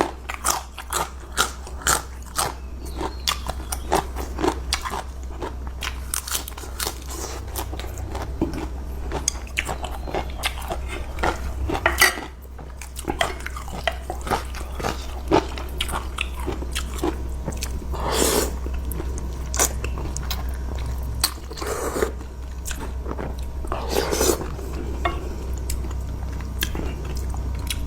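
Close-miked chewing and crunching of food while eating curry noodles: many quick bites and crunches in the first half, then a few longer, louder mouth sounds later.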